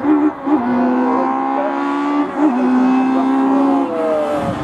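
Race car engine at high revs climbing a hillclimb course, its note held high and steady and broken by short dips, likely gear changes or lifts, near the start, about halfway through and near the end.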